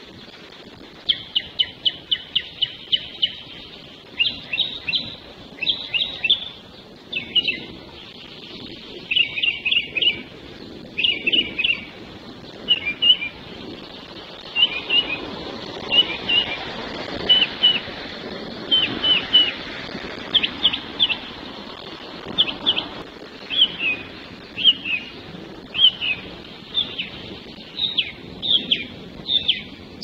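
Songbirds singing: short, high chirping phrases of quick notes, repeated every second or so.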